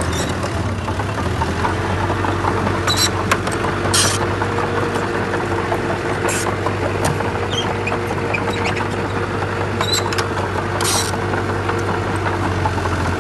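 Komatsu D31P bulldozer's diesel engine running steadily, with short high scrapes or squeaks breaking in a few times.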